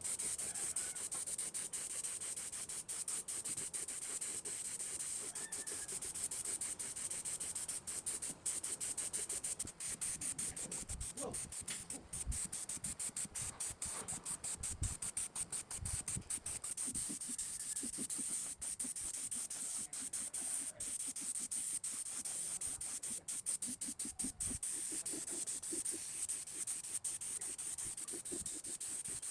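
Steady abrasive rubbing, as in hand sanding: a continuous bright hiss with a few soft knocks around the middle.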